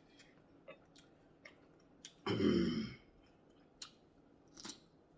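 Person eating: small wet clicks and smacks of chewing scattered throughout, with one louder, short throat sound a little past two seconds in.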